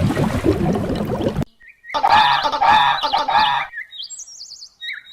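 A large bird's loud call lasting about a second and a half, wavering and pulsing in pitch, followed by a few brief high chirps. Before it, a busier animal sound cuts off abruptly about a second and a half in.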